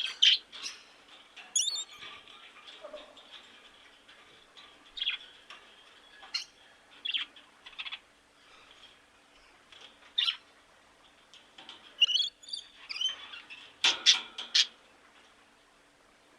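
Bird calls: short, sharp chirps and squeaks at irregular intervals, with a loud cluster of calls near the end.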